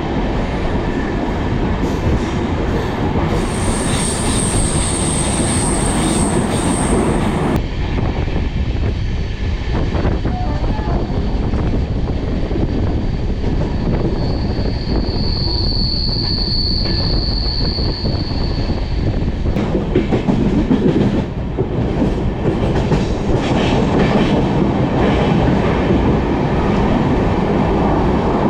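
Passenger train running on the rails: a loud, steady rumble of the coach and wheels, with two spells of high-pitched wheel squeal, one about four seconds in and a longer one about halfway through.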